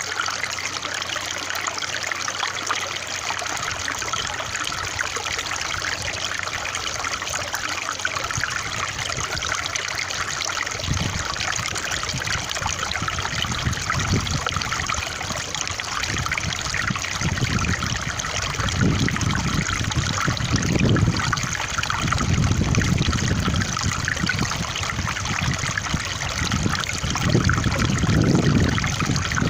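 Running water trickling steadily, with a deep rumble that comes and goes from about a third of the way in.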